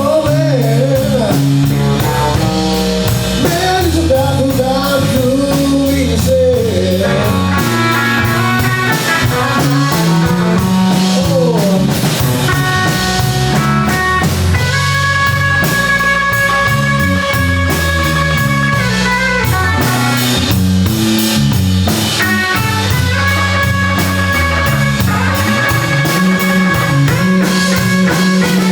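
A blues band playing a slow blues live, with electric guitar lead lines bending notes and holding long sustained notes over bass and drum kit.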